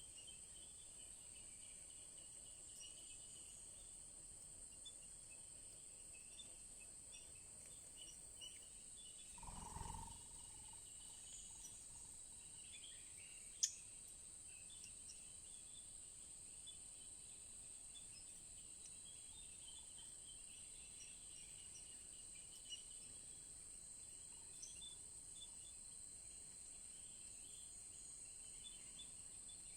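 Quiet forest ambience: a steady high insect drone with scattered faint small-bird chirps. A brief low thump about ten seconds in, and a single sharp click a few seconds after it.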